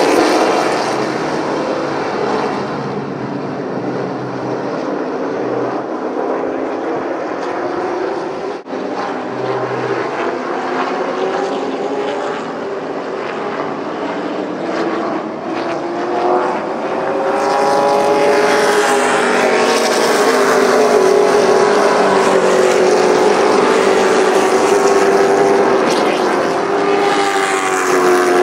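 Race trucks' engines running on a short oval track at high revs, with a brief dropout a little under 9 seconds in. From about 17 seconds in the engines get louder and closer, their pitch rising and falling as they pass.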